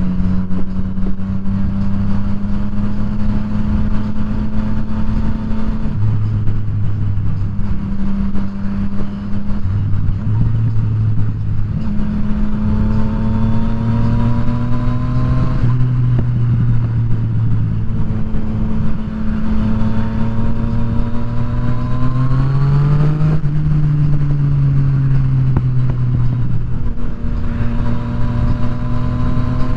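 Yamaha FZ-09's 847 cc inline-three engine pulling through the gears while riding. Its pitch rises in several runs of a few seconds and drops at each shift. A sharper climb comes a little past two-thirds of the way through, then the pitch slowly falls as the throttle eases off.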